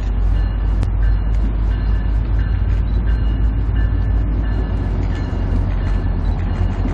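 Train rolling across a high railroad viaduct: a steady deep rumble, with faint high squealing tones that come and go and a few sharp clicks.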